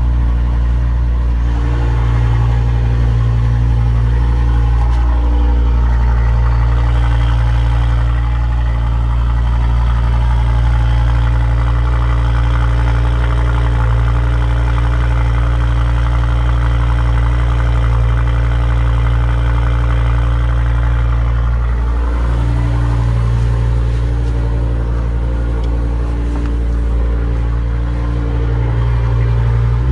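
Audi TT RS Plus's turbocharged 2.5-litre inline five-cylinder engine idling steadily just after a cold start. The idle note drops slightly about 22 seconds in, as the cold idle settles.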